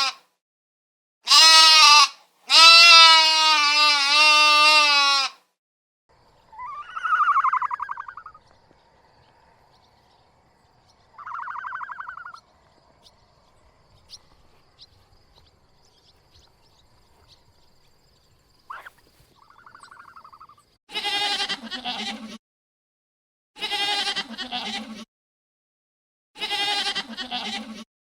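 Bleating livestock. Two long, loud, wavering bleats come first, then a few fainter, higher calls, and near the end four shorter, lower bleats in a row. The silences between the calls drop suddenly to nothing.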